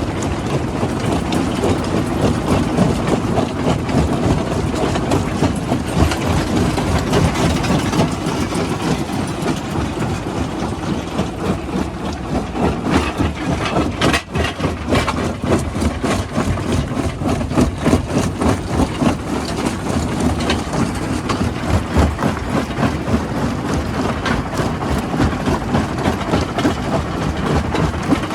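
Heavy rock-crushing machinery running: a steady engine-and-drive drone under constant rattling and knocking of stone. There is a brief lull about halfway through.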